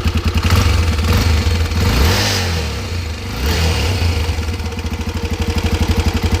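Honda Twister's 250 cc single-cylinder four-stroke engine running with an engine noise that persists after a new connecting rod, piston, rod bearings and gasket; the owner did not touch the cylinder head. It idles with an even beat, is revved up about half a second in, and drops back to idle by about four seconds.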